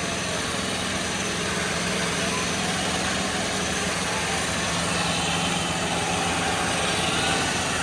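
Diesel tractor engines running steadily in a tractor tug-of-war, with a steady low engine note that swells slightly toward the end.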